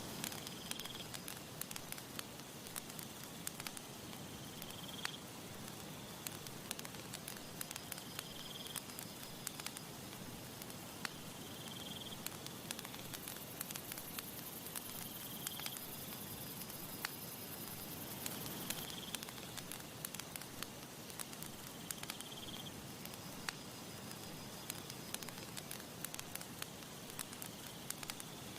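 Campfire crackling, with many sharp snaps and pops over a soft steady hiss of burning wood and breeze. A short high chirp repeats about every three and a half seconds, and a thin high whine runs for several seconds in the middle.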